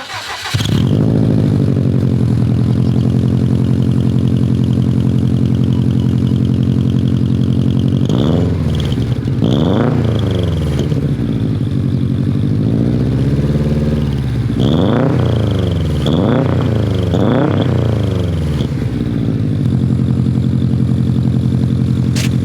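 Turbocharged car engine starting and settling to idle, then blipped through about five quick revs in the middle before dropping back to idle. A high, thin whistle comes in during the revs from five whistle inserts packed into the exhaust tip.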